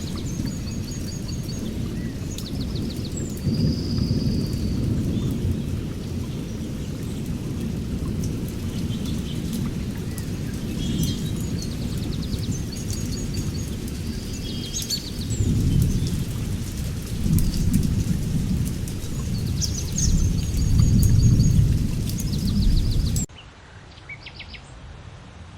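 Rolling thunder rumbling in several swells over steady rain, with small birds chirping and trilling above it. About 23 seconds in the storm cuts off suddenly, leaving quieter birdsong.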